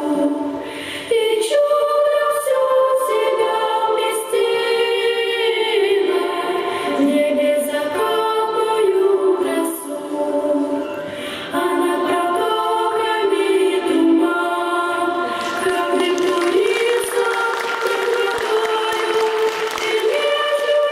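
Choir singing, the voices holding long notes that step from pitch to pitch.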